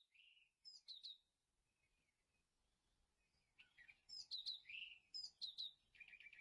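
Faint bird chirping: a short run of quick high chirps near the start, then a longer, busier run of chirps from about three and a half seconds in.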